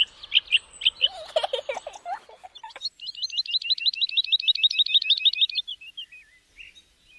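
Small birds chirping and twittering: a run of high chirps, then a fast, even trill of about ten chirps a second lasting some two and a half seconds before it trails off.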